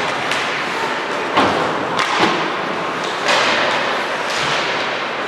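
Several sharp knocks and thuds during an ice hockey game, about four in quick succession: puck and sticks hitting the boards and each other, over steady arena noise.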